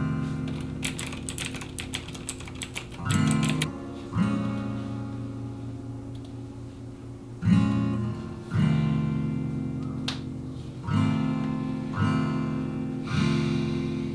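Background music: an acoustic guitar strumming slow chords, each left to ring and fade before the next.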